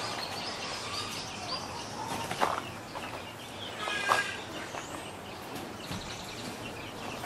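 Young chickens clucking and flapping their wings as they are handled and released, with a louder call about four seconds in.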